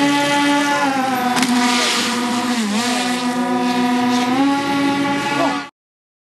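Twin brushless outrunner electric motors spinning propellers at high throttle: a loud, steady buzzing drone with a clear pitch that dips briefly about two and a half seconds in, with one sharp click about a second and a half in. The sound cuts off abruptly near the end.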